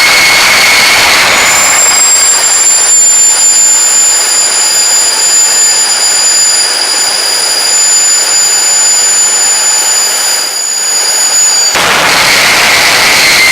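Homemade turbocharger-based turbojet engine running loud, a dense rushing hiss with a steady turbine whine. About a second and a half in, the whine shifts up to a higher pitch. Near the end it drops back abruptly to the lower whine.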